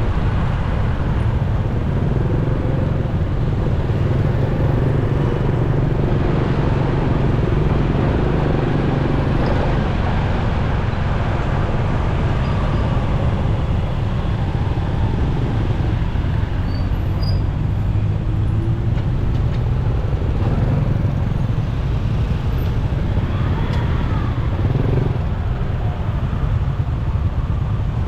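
Motorcycle riding in traffic: a steady low engine drone with road noise and other vehicles passing, the pitch shifting now and then as speed changes.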